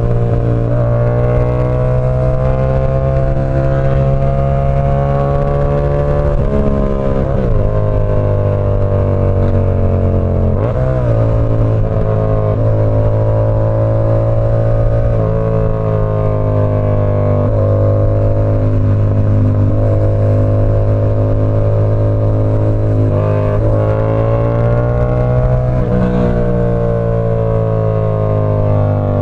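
Yamaha R7's 689 cc parallel-twin engine through an SC Project CR-T exhaust, running under way at a steady speed. The engine note slowly rises and falls, and the pitch dips sharply and climbs back about seven and about ten seconds in.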